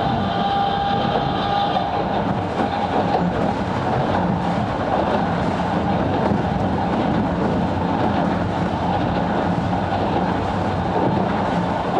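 Sangi Railway Hokusei Line 270-series narrow-gauge (762 mm) electric train running, heard from inside the car: steady wheel and rail rumble with some clickety-clack. A high steady whine fades out about two seconds in.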